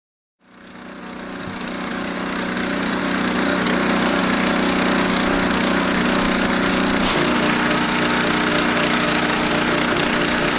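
Gas-engine pressure washer running steadily, fading up after the first half second; about seven seconds in there is a click and its tone changes abruptly.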